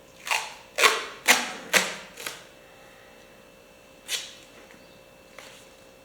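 Tape being pulled off the roll in quick rasping strips: five pulls in about two seconds, then one more about four seconds in.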